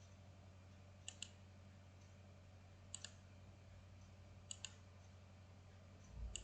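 Computer mouse clicking: four pairs of short, sharp clicks about a second and a half apart, over a faint low hum.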